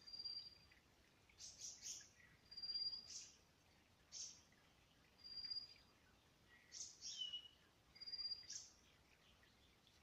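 Faint birdsong: one bird repeats a thin, high, level whistle about every two and a half seconds, four times, with short high chirps from birds in between.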